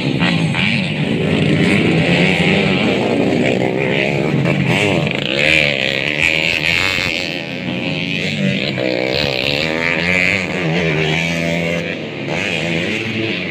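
Several motocross bikes racing, their engines repeatedly revving up and dropping back through the gears.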